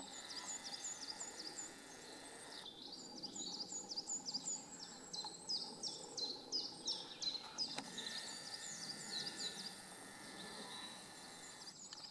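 Small songbirds chirping in woodland: a steady run of quick, high chirps, a few each second.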